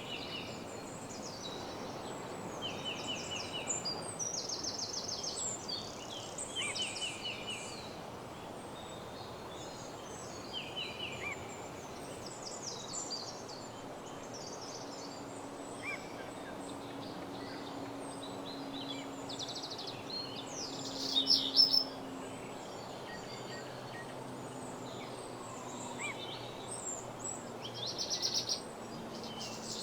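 Woodland dawn chorus: several songbirds singing quick high trills and chirps over a steady background hiss, with the loudest bursts about two-thirds of the way in and at the very end.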